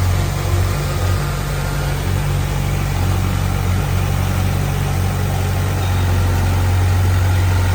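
Heavy-equipment diesel engine running steadily at low revs, with a strong low hum; it eases off slightly a second or so in and picks up again near the end.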